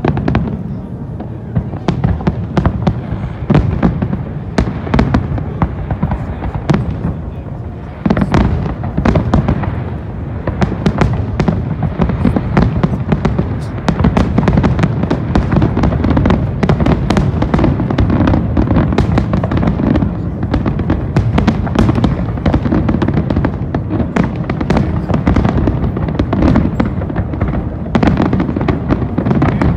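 Large aerial fireworks display heard from a distance: a dense, continuous barrage of shell bursts, many each second, with crackling over a steady low rumble that gets busier about eight seconds in.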